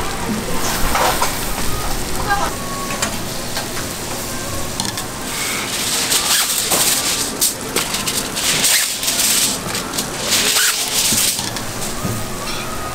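Food frying on a hot flat griddle: a steady sizzle that surges louder twice, about six seconds in and again around nine to eleven seconds.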